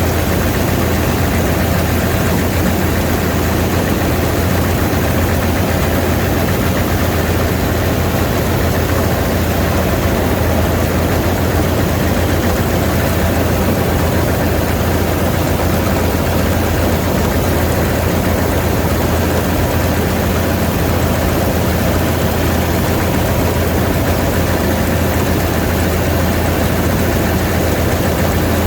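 Vistula KZB-3B combine harvester running steadily while harvesting grain, a loud constant engine and machinery hum that does not change.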